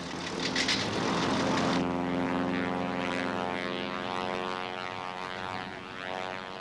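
Gyrocopter's propeller engine droning at a steady pitch, coming in about two seconds in after a brief rushing noise.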